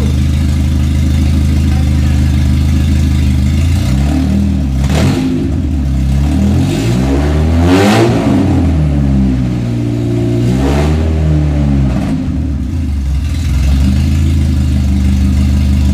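Honda four-cylinder engine in an EF Civic idling, then revved up slowly about four seconds in and let fall back, revved again about ten seconds in, and settling back to a steady idle.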